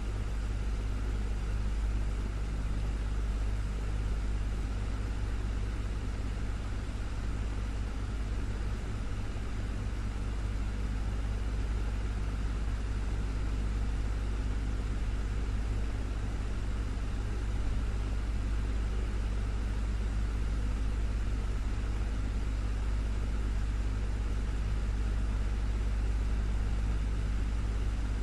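Desktop fan running steadily: a low hum with a soft, even whoosh of moving air.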